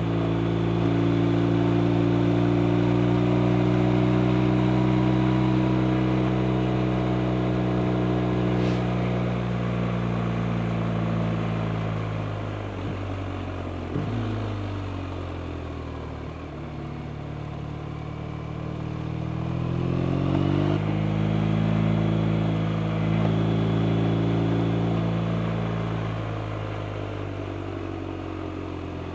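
BMW R 1250 RT's 1254 cc boxer twin running on a ride: steady engine note under throttle, then the revs drop about halfway through with a brief click. It pulls at low revs for a few seconds, picks up again about two-thirds of the way in, and eases off near the end.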